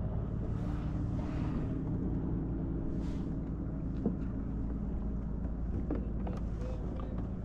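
A motor's steady low hum with a soft hiss of wind or water over it, and two small clicks about four and six seconds in.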